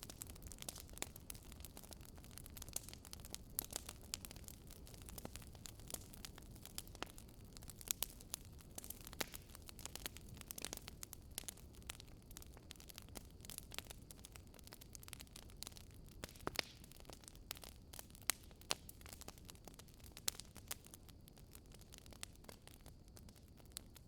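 Firewood burning in a fireplace: irregular crackles and sharp pops over a low, steady rumble of the fire.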